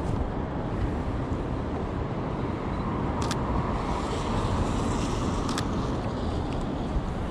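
City street traffic noise, with a car passing that swells and fades in the middle. Two sharp clicks come about two seconds apart.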